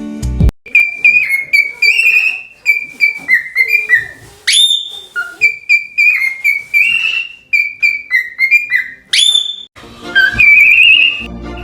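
Cockatiel whistling a run of short chirpy notes, with two sharp rising whistles partway through and a warbling whistle near the end. Strummed guitar music cuts off at the very start.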